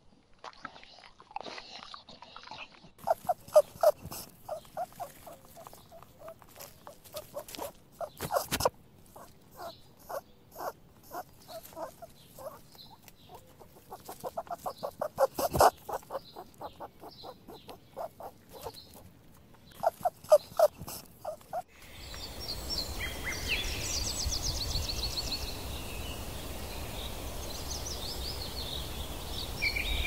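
A dog's short, repeated sounds in quick clusters, with a few sharp clicks among them. After about twenty seconds they give way to steady outdoor background noise with birds chirping.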